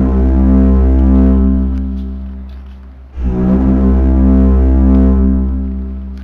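The 2012 'strange sounds' sky noise: a loud, deep, trumpet-like drone in two long blasts. Each comes in suddenly and fades over about three seconds. The second starts about three seconds in.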